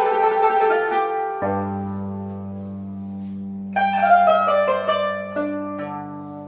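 Rababa playing an instrumental passage: a low note held steady under melodic notes that fade out, then a new phrase about four seconds in.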